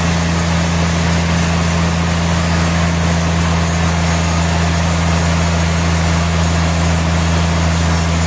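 Sawmill machinery running steadily: a constant low hum with an even hiss over it, unchanging throughout.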